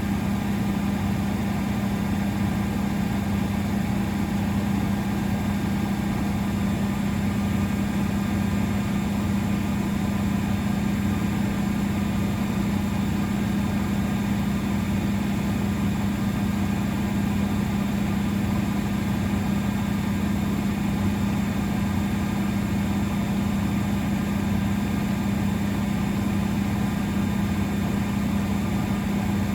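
Miele Novotronic W921 washing machine running steadily with a constant hum.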